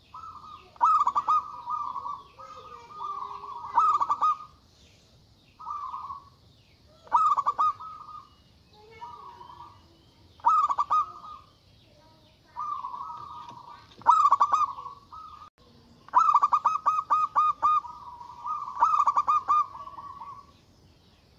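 Zebra dove (perkutut) singing: a run of cooing phrases, each a quick series of pulsed, rolling coos, repeated every two to three seconds.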